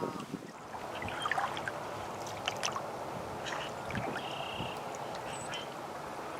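Water gurgling and trickling around an aluminium canoe moving on a river, a steady wash of sound, with a few short high chirps scattered through it.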